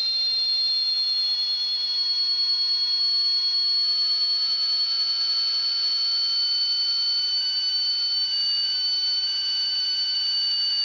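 Small 15-turn brushed RC motor whining at full throttle on an electronic speed control, its pitch climbing slowly as it spins up. A steady high whistle sits over it, which the owner takes for radio interference.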